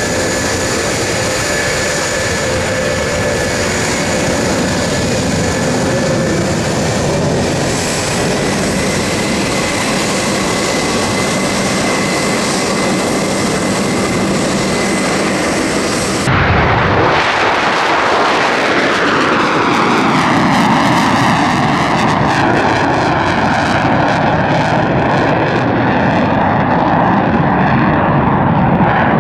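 Military aircraft engines in a loud, steady roar during an airshow flypast. About two-thirds of the way in, the sound changes abruptly to an aircraft passing overhead, its roar sweeping downward in pitch as it goes by.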